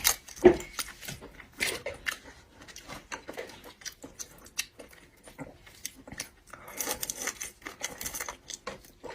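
Eating seafood at close range: irregular clicks and cracks of shells being broken and handled, with chewing.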